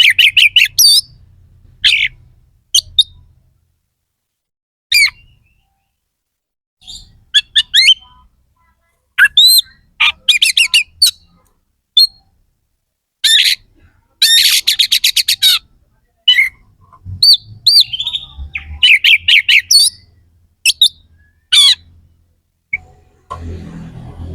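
Oriental magpie-robin (kacer) singing loud, harsh, sharp song phrases in short bursts separated by pauses. About halfway through comes a fast run of rapidly repeated notes.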